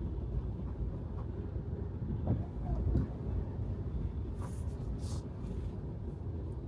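Steady low road and tyre rumble of a Tesla Model 3 driving on wet pavement, with no engine sound. Two short hissing swishes come a little past the middle.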